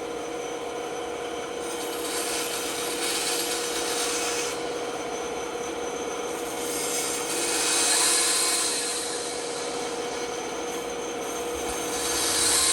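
Rasping, rubbing noise of wood being worked by hand or tool, swelling in three slow passes, over a steady hum.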